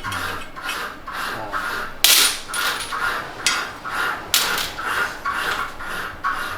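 Hand file rasping back and forth over a small metal chest fitting, about two strokes a second, a few strokes harder than the rest: the part being shaped and finished by hand filing.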